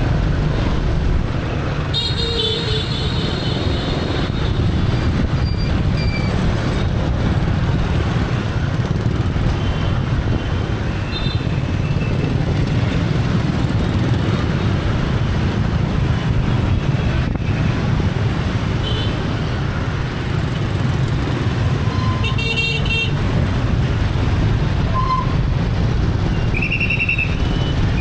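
Motorbike engine and road noise running steadily in dense street traffic, with horns of passing motorbikes and cars honking: a long horn about two seconds in, a few short beeps, another horn later, and a brief toot near the end.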